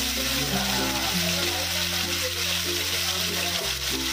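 Masala-coated pomfret pieces frying in a pan of hot oil, a steady sizzling hiss, with background music of held low notes that shift pitch every second or two.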